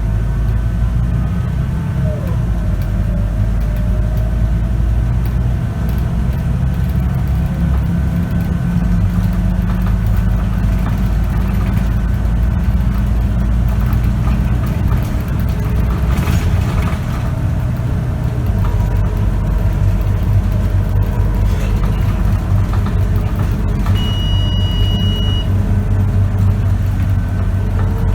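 Scania K94UB city bus engine and ZF automatic gearbox heard from inside the bus while driving, the engine note shifting a couple of times as the speed and gears change. A short, steady high-pitched beep sounds once near the end.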